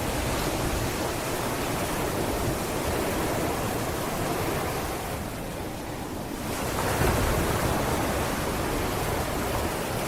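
Sea waves on a beach: continuous surf wash that eases off about five seconds in and swells again as the next wave breaks about two seconds later.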